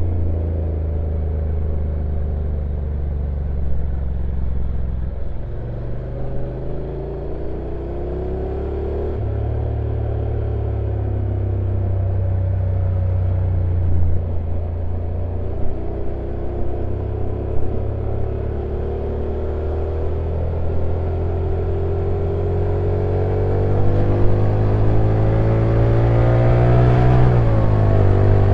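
Honda NC750X DCT motorcycle's parallel-twin engine running on a downhill ride, its pitch rising and falling with the throttle and gear changes. Near the end it rises and then drops steeply at a shift.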